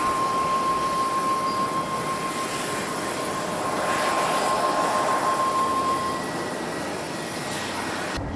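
Boeing 737-800's CFM56 jet engines at takeoff power as the airliner departs, a steady rushing noise with a high whine that fades out about six seconds in. The sound changes abruptly just before the end.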